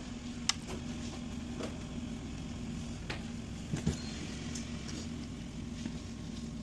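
A steady low hum with a few light clicks and taps scattered through it, the loudest a knock a little before the middle.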